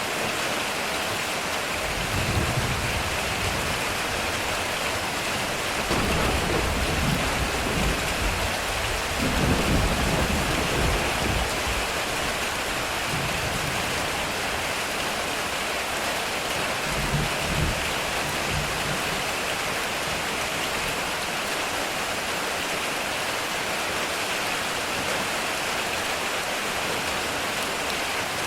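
Heavy rain drumming steadily on a metal roof, with low rolls of thunder: one about two seconds in, a longer rumble from about six to twelve seconds, and a shorter one around seventeen seconds.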